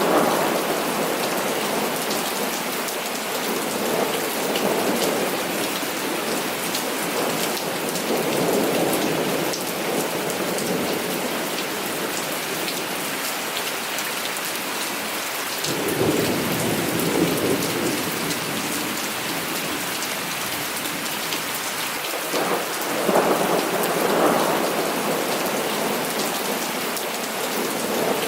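Heavy rain falling steadily, with thunder rumbling four times; the deepest roll comes a little past halfway through.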